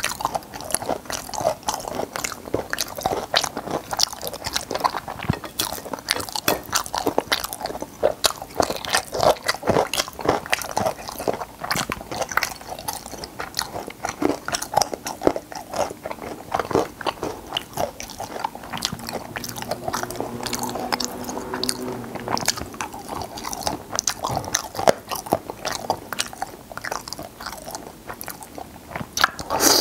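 Close-miked chewing and biting of braised stingray: wet mouth sounds with many quick, irregular crunches as the soft cartilage is bitten through. A short hum is heard about twenty seconds in.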